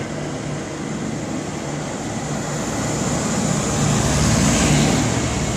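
V/Line VLocity diesel railcar train pulling into the platform, its engines and wheels growing louder as it passes close by.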